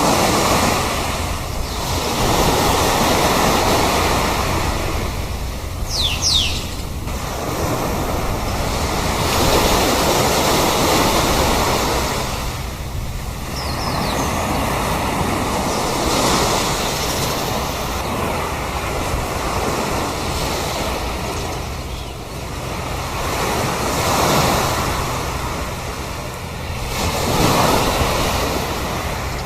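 Sea surf washing onto a shore, each wave swelling and falling back every few seconds. A short high bird call sounds about six seconds in, and a fainter one around fourteen seconds.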